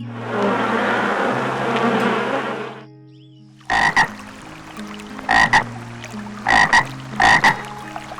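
An insect's buzzing stops about three seconds in. Then a frog croaks four times, each croak a quick doubled call.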